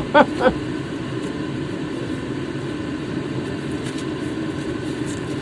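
Steady background drone with no distinct events, apart from a couple of faint ticks.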